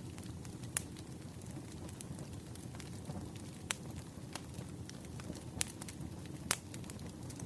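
Firewood burning: a low, steady rumble of flames with sharp crackles and pops every second or few, the loudest pop about six and a half seconds in.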